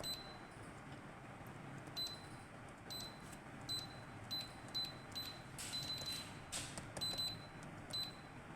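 Omron NS8-TV10 HMI touch-panel buzzer giving short, high beeps as its touch switches are pressed during a touch-switch test: about a dozen beeps at irregular intervals, a few held slightly longer.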